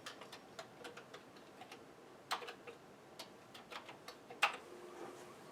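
Keys clicking unevenly on a Commodore 64 keyboard as a command is typed in to load a disk directory, with two louder clacks about two and a half and four and a half seconds in.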